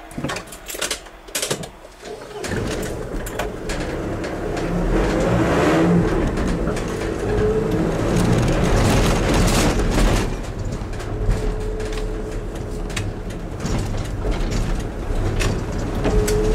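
Vehicle engine heard from inside the cab, pulling away and accelerating. The first two seconds hold scattered clicks and knocks, and then the engine comes up loudly and holds.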